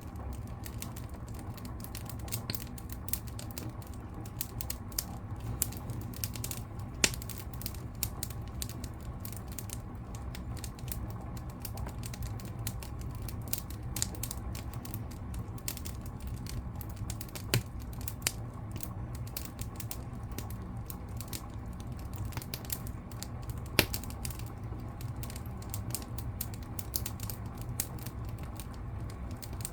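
Fire in a fireplace crackling steadily over a low rumble of flames, with a few louder pops spread through.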